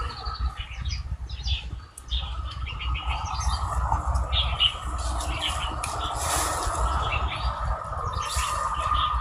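Small birds chirping repeatedly in short calls, over a steady high tone and a low rumble.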